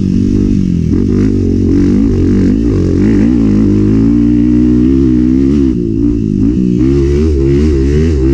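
Enduro dirt bike engine under hard riding, its revs rising and falling constantly with the throttle. Background music with a steady bass line plays along.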